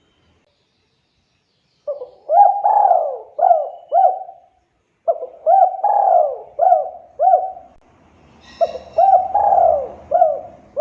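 Spotted dove (tekukur) cooing: three phrases of four or five short falling coos, beginning about two seconds in.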